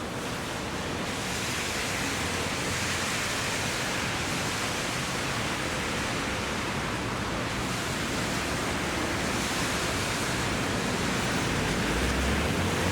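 Steady hiss of heavy rain falling, an even, unbroken wash of noise, with a faint low rumble coming in near the end.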